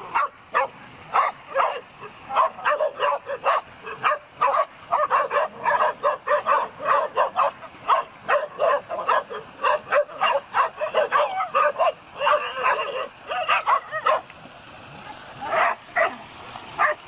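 Dogs barking rapidly and excitedly, short sharp barks and yips following close on one another, with a brief lull about fourteen seconds in before the barking starts again.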